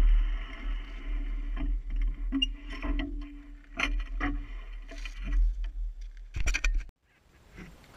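KTM 990 motorcycle's V-twin engine, a steady low rumble under scattered knocks and rattles. All sound cuts off abruptly about seven seconds in.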